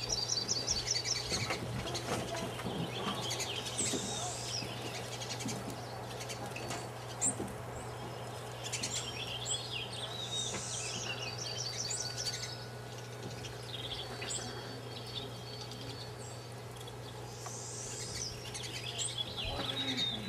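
Wild songbirds chirping and singing in repeated short trills, with a steady low hum underneath.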